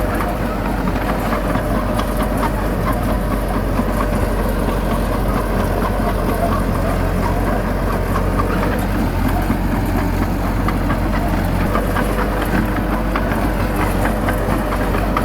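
Heavy diesel engine of earthmoving machinery running steadily under a low, even hum, with light scattered clatter.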